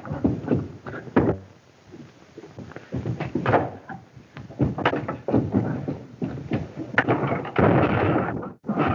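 A rapid, irregular series of thumps, knocks and bangs, with a denser, noisier clatter near the end.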